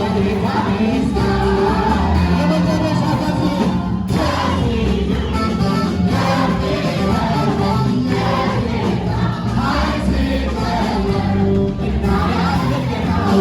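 Ethiopian gospel song (mezmur): singing over a steady instrumental backing with sustained held keyboard or bass notes.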